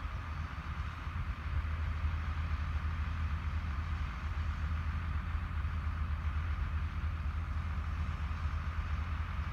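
Heavy diesel farm machinery running steadily in the silage field, with a strong low rumble; it gets a little louder about a second and a half in.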